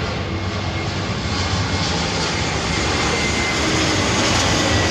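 Jet airliner passing low overhead: steady engine noise that slowly grows louder, with a faint high whine sliding gently down in pitch.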